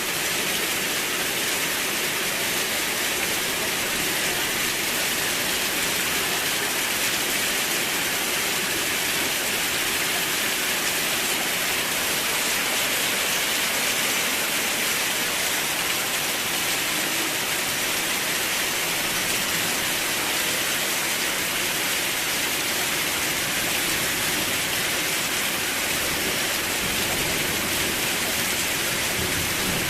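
Steady rain falling, a constant, even hiss with no drops or thunder standing out.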